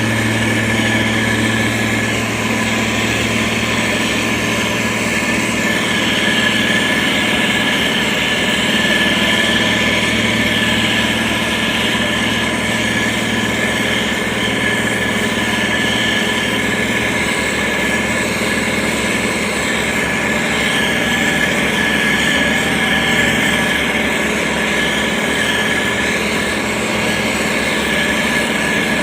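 Motor grader's diesel engine running steadily, a constant low hum with a steady high whine above it.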